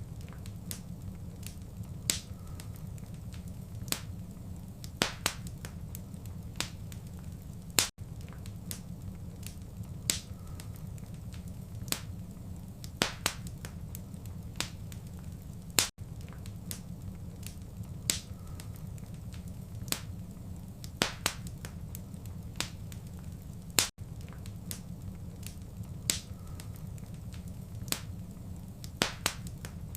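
Fireplace fire crackling: scattered sharp pops and snaps over a steady low rumble of burning. The same short recording repeats about every eight seconds, with a brief gap at each seam.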